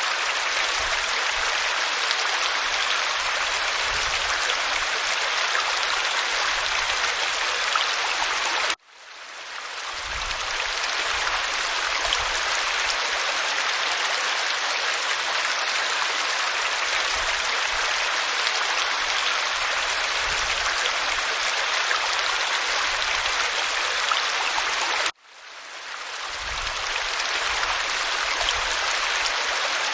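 Waterfall pouring over rock: a steady rush of water. It cuts out abruptly twice, about nine and twenty-five seconds in, and fades back up over a second or two each time.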